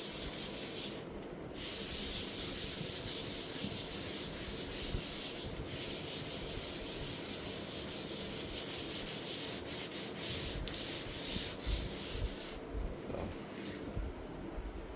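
600-grit sandpaper rubbed in light, repeated strokes over walnut veneer, smoothing cured dyed CA glue fills. There is a brief pause about a second in, and the strokes thin out near the end.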